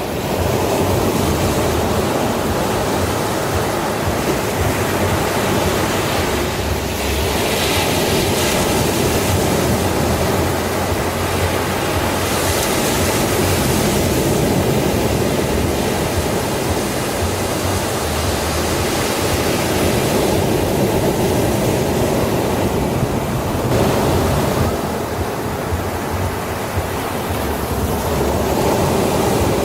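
Sea waves breaking and washing on a beach, a continuous rushing surf that swells and eases every few seconds.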